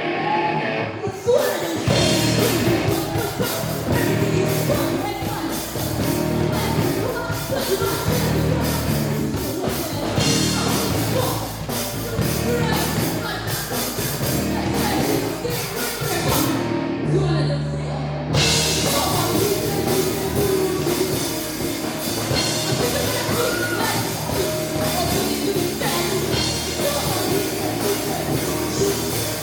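Live rock band playing with a lead singer: full band with drums and vocals kicking in about a second in. Partway through, the band drops out to a held low note for about a second and a half, then comes back in full.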